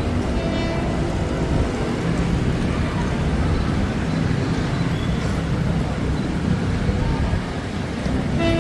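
Steady low rumble of road traffic, with a train horn starting to sound right at the end.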